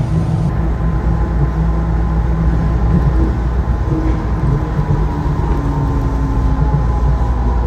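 Automated people-mover train running: a steady low rumble with a faint hum, no distinct events.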